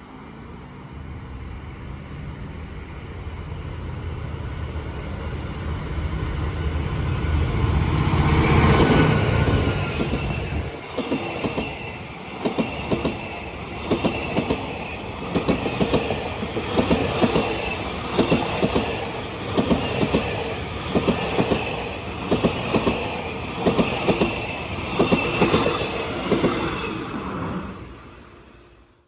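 SRT Qishuyan (QSY) diesel-electric locomotive approaching with a passenger express. The engine sound builds to a peak as it passes about nine seconds in. The coaches then roll by with a regular clickety-clack of wheels over the rail joints, fading near the end.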